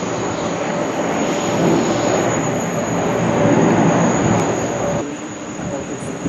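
Jet airliner engines, a loud steady rushing noise with a faint steady whine in it, dropping away abruptly about five seconds in.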